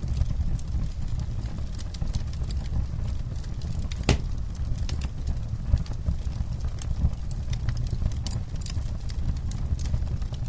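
Wood campfire crackling: irregular snaps and pops over a steady low rumble, with one sharp pop about four seconds in.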